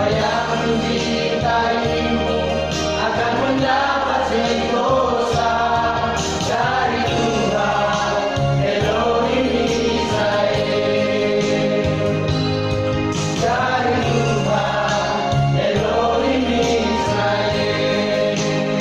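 Vocal group singing a gospel song together in harmony, over a steady low bass accompaniment that changes note every second or two.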